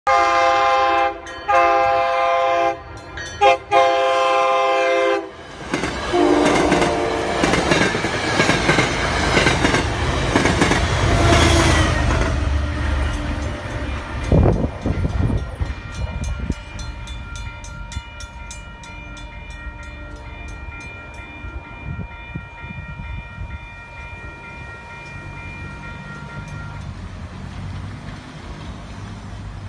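Train sounding its horn at a grade crossing in the long, long, short, long pattern. It then speeds through with a loud rumble and rattle of wheels on rails, which fades as it moves away.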